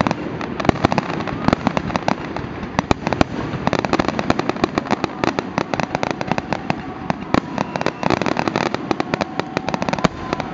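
Fireworks grand finale: a dense, continuous barrage of shell bursts, many bangs a second, over steady crackling.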